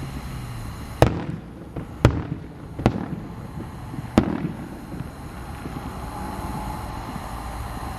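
Aerial fireworks shells bursting: four sharp bangs about a second apart in the first half, each followed by a rolling echo, then only a low steady background rumble.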